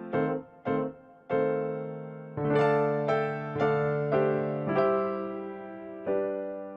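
Background music: a piano or electric piano playing a slow melody of separate struck notes, ending on a chord that fades out.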